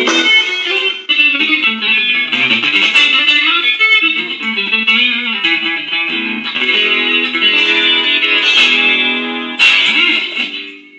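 Electric guitar played through a DigiTech effects unit: a blues phrase of picked single notes, ending with a struck chord about ten seconds in that rings out and fades away.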